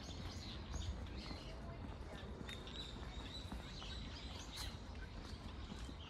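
Small birds chirping with short high calls, one holding a thin high note for a couple of seconds midway, over a steady low rumble.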